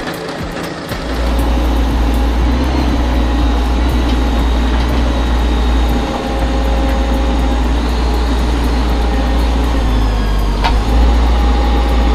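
Heavy machine engine running with a steady low rumble that grows louder about a second in and holds.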